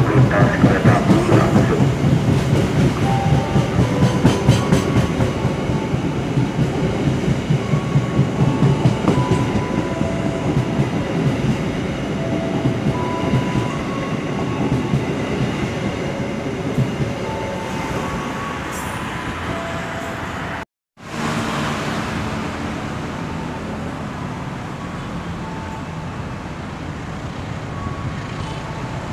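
Passenger train coaches rolling past, their wheels clattering over the rail joints in a quick rhythm that grows fainter as the train moves on. About two-thirds of the way through the sound breaks off suddenly and gives way to a steadier, even rumble.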